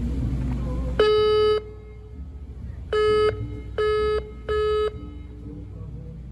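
A vessel's horn sounding four blasts: a first of about half a second, then three shorter blasts in quick succession, each a steady, fairly high pitched tone, over a low engine rumble.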